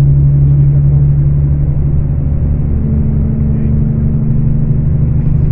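Scania K410 coach's diesel engine running steadily with a low drone. The tone shifts slightly a little before halfway through.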